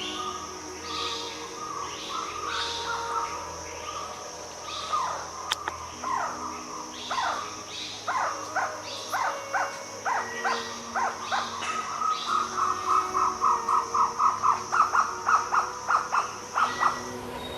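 A bird calling in short, sharp sweeping notes that quicken into a fast run of about four notes a second near the end, over a steady high-pitched insect drone.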